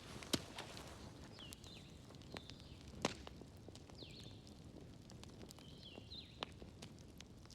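Wood fire crackling in a fireplace: soft steady ticking with three sharp pops spread through it. Faint, short, high falling whistles come and go.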